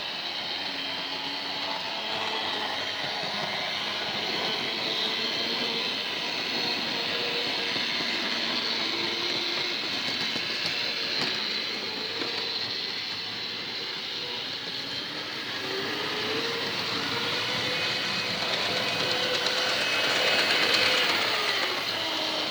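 Model railway locomotive hauling a rake of wagons along the track: the wheels rumble on the rails and the small electric motor whines, its pitch wavering as the speed changes.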